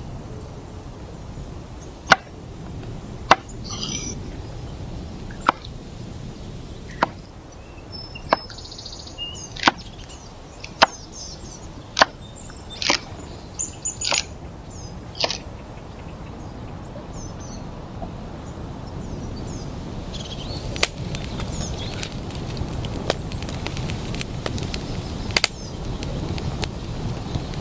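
Chopping: a series of sharp strikes, roughly one a second, with short bird chirps between them. About two-thirds through, the strikes give way to a dense, fine crackling.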